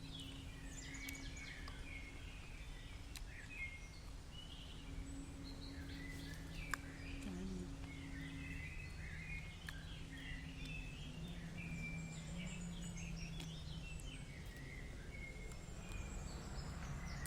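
Birds chirping and calling in woodland, short high chirps scattered throughout, over a faint steady low hum. A single sharp click comes about seven seconds in.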